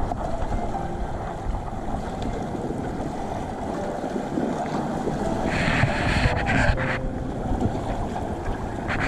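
Wind buffeting the microphone over the wash of surf, with a brief louder hissing rush past the middle.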